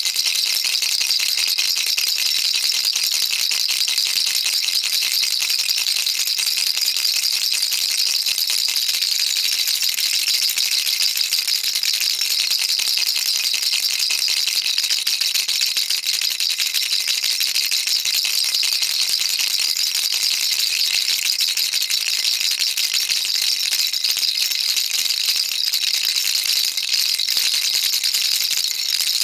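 Baby rattle shaken continuously, a dense, steady high-pitched rattling of small beads inside the toy.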